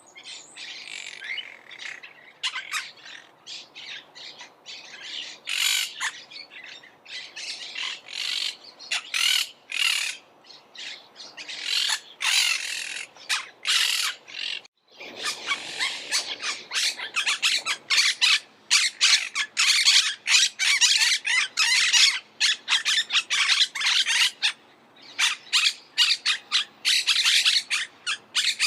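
Monk parakeets calling: a rapid run of short calls, many a second and overlapping. A brief silent gap comes about halfway through, after which the calling is louder and denser.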